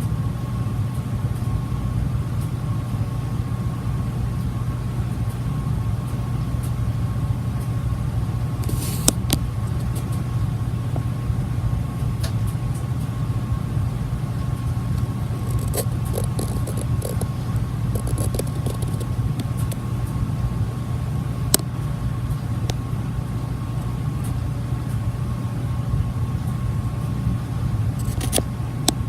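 Olympia MFG five-blade ceiling fan running steadily: a low rumble of moving air with a faint, even motor hum, broken by a few short clicks.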